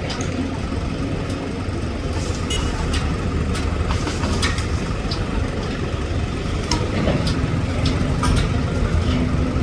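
A motor engine running steadily with a low rumble, with scattered light clicks and knocks over it.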